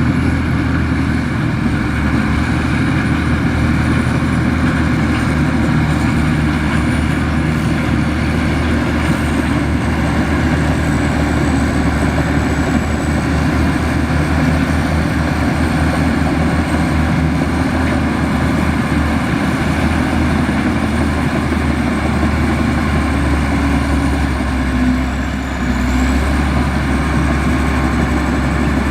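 Heavy diesel engine of a Komatsu bulldozer running steadily, with a thin high whine on top; the level dips briefly near the end.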